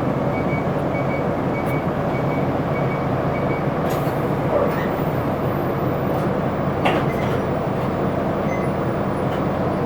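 Isuzu Erga city bus heard from inside the cabin, its diesel engine and running gear making a steady rumble under way, with a faint intermittent high tone early on and a couple of brief rattles or clicks.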